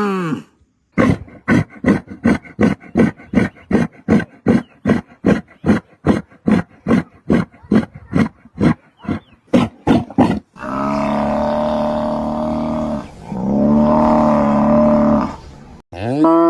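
A large wild animal calling: a fast, even series of rasping grunts, about three a second for some nine seconds, then two long, deep, steady calls.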